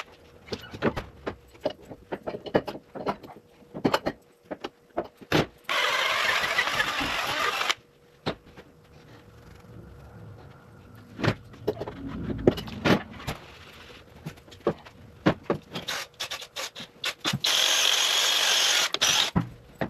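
A handheld power tool runs in two bursts of about two seconds each, cleaning old gasket material off the engine's gasket surface. Between the bursts there are short clicks, taps and scraping from hand work on the metal.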